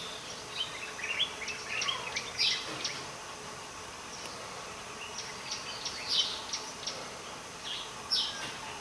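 Several birds calling in short chirps and brief whistles, scattered irregularly over a faint, steady background hiss.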